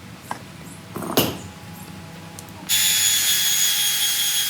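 A few short knocks, then an electric power tool starts suddenly about two and a half seconds in and runs steadily with a high whine.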